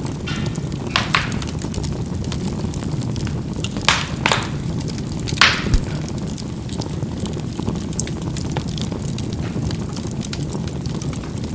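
Charcoal burning in a fireplace: a steady low rush of fire with scattered crackling and sharp pops, about six louder pops in the first half.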